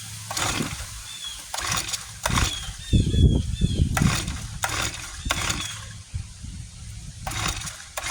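Irregular mechanical clicks and knocks from working on a small four-stroke Honda rototiller engine, with a louder burst of low rumbling knocks about three seconds in. Birds chirp faintly in the background.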